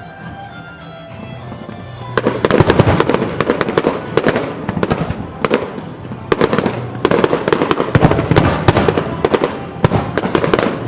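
Fireworks bursting in a dense, loud barrage of cracks and crackles that starts about two seconds in, with short lulls, over background music.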